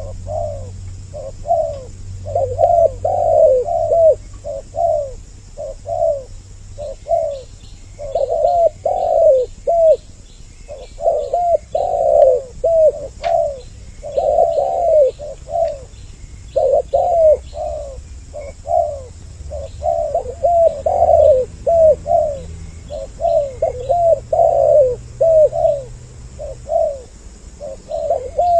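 Spotted doves (tekukur) cooing over and over, two birds calling at once so their coos overlap. Faint high chirps from small birds come in from about eight seconds in.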